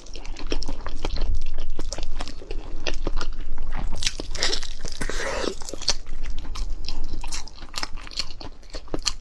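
Close-miked eating: a person biting into and chewing food, with many quick, irregular sharp clicks and crackles from the bites and chewing.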